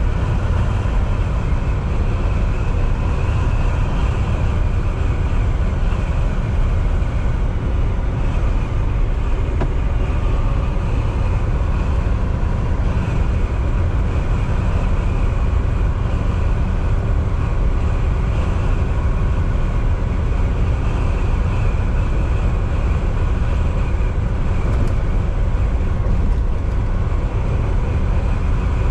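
Volvo VNL 760 semi truck cruising at highway speed, heard from inside the cab: a steady, loud low drone of diesel engine and tyre and road noise that does not change.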